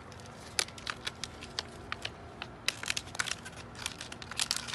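Crushed plastic water bottle being handled, crinkling and crackling in irregular sharp clicks that come thicker from under halfway in.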